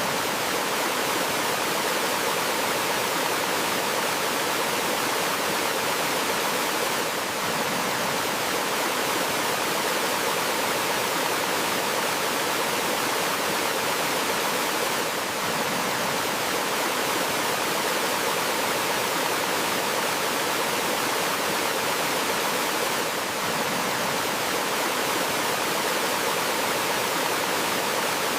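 Water of a forest stream spilling over a small waterfall, a steady, even rush that dips slightly about every eight seconds.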